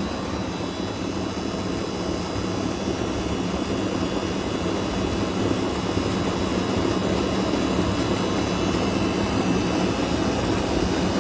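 Older residential AC condensing unit running steadily: the condenser fan rushing air over a low, constant compressor hum. It is running at high head pressure with a badly dirty condenser coil.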